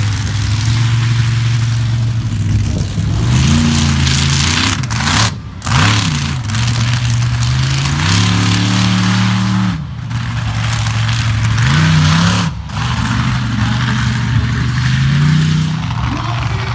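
Monster truck engine running loud and being revved hard over and over, its pitch rising and falling several times. The sound cuts out briefly and sharply about three times, around five, ten and twelve seconds in.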